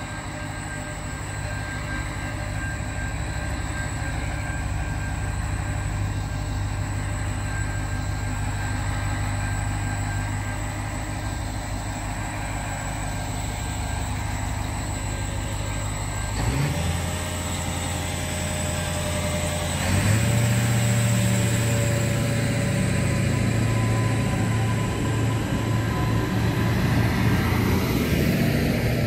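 Commuter train railcar running at the platform and then pulling away. Its low drive note steps up sharply about 16 seconds in and again about 20 seconds in, growing louder as the train moves off.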